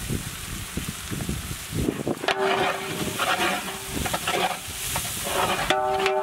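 Chopped onions, ginger-garlic paste and freshly added chilli powder, salt and turmeric sizzling in hot oil in a large metal pot. From about two seconds in, a perforated metal ladle stirs and scrapes against the pot, adding a ringing metallic tone over the sizzle.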